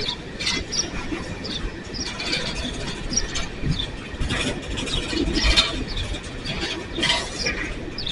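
Empty coal train cars rolling past: a steady low rumble of wheels on rail, with many short, irregular wheel squeals and screeches.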